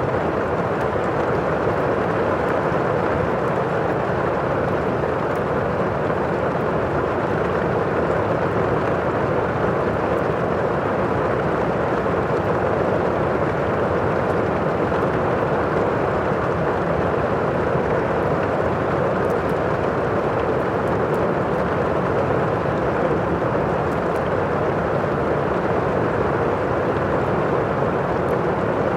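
Steady thunderstorm and fireplace ambience: an even, unbroken rush of storm noise, with faint crackles from the fire now and then.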